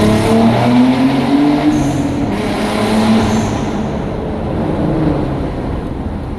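Car engine revving loudly, its pitch rising and falling, then easing down and slowly getting quieter.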